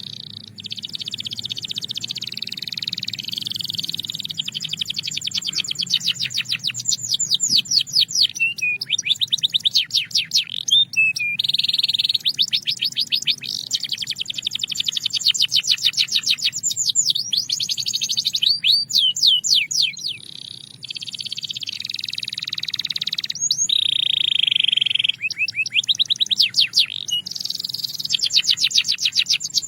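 Belgian canary singing: fast rolling trills of rapidly repeated high notes, one phrase after another with only short pauses between them.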